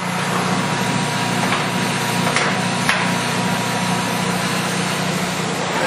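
American Model C heavy-duty engine lathe running with its spindle turning at 157 RPM: a steady hum from the 20 HP main drive, with a thin faint whine and a few light ticks about one and a half to three seconds in.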